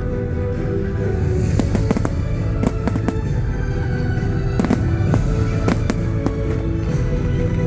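Fireworks going off in a rapid, irregular string of sharp bangs and crackles, over loud music playing steadily.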